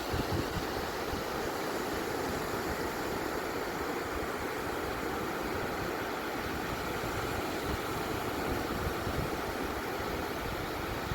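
Ocean surf, a steady even roar with no separate wave crashes standing out.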